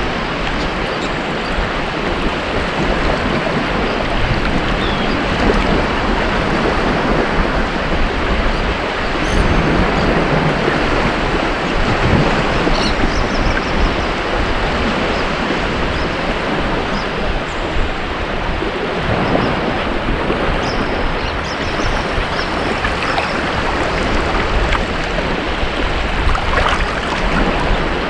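Ocean surf washing onto a beach: a continuous rush of breaking waves that swells a little louder about a third of the way in and again near the end.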